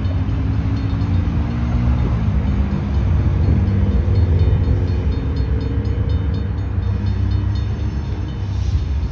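Diesel locomotive engine of an approaching train, a steady low rumble whose pitch rises slightly a few seconds in, with a grade crossing's bell ringing faintly in repeated strokes.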